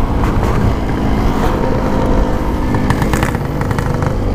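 Yamaha RX-King single-cylinder two-stroke motorcycle running under way at a fairly steady engine pitch.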